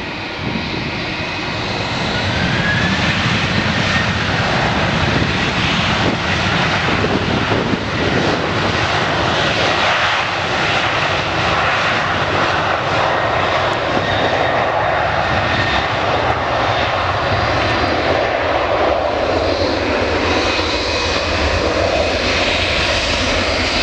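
Jet airliner engines growing louder over the first few seconds, with a short rising whine, then running steady and loud at high power.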